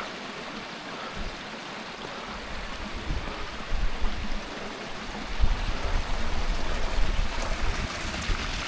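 Hillside stream rushing steadily over rocks, with wind buffeting the microphone in uneven low gusts from a few seconds in.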